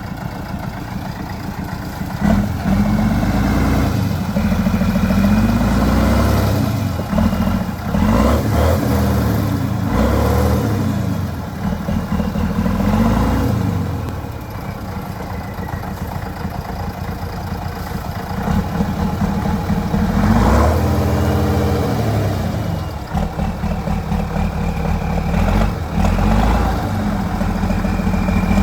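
Off-road trial truck engine revving up and down repeatedly under load, its pitch climbing and dropping every few seconds, with occasional knocks and clatter.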